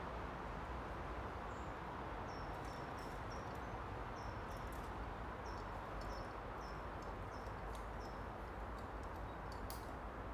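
A small bird chirping in short, high, repeated notes that dip at the end, over a steady outdoor hiss, with a few faint sharp clicks and one louder click near the end.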